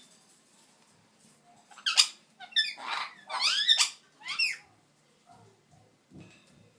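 Pet parrot calling: a quick run of short chirps and squawks with sliding pitch, starting about two seconds in and lasting a couple of seconds.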